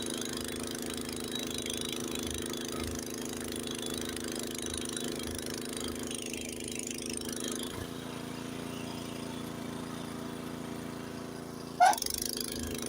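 Honda snowblower engine running steadily under load while it chews through deep snow. Its note changes about eight seconds in, and there is a brief louder burst near the end.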